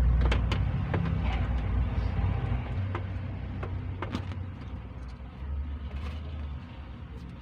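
Low rumble of a vehicle engine that fades over a few seconds, with scattered light clicks over it.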